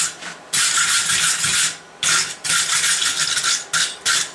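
A hand tool scraping along the steel workpiece in a quick series of harsh strokes. The strokes are about half a second to a second long, each starting and stopping sharply.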